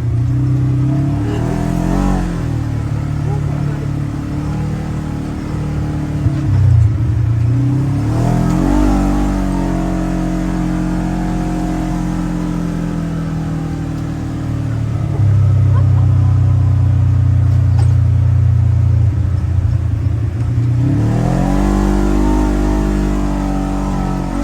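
Polaris General XP 4 1000 side-by-side's twin-cylinder engine running under way, revving up sharply about 2, 8 and 21 seconds in and easing back to a steady drone between.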